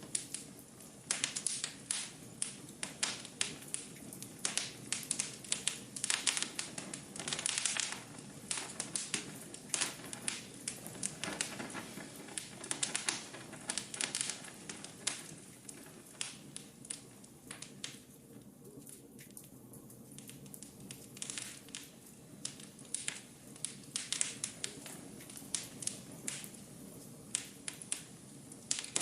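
Wood fire crackling in a fireplace: irregular sharp pops and snaps over a soft steady background, thinning out for a few seconds a little past the middle.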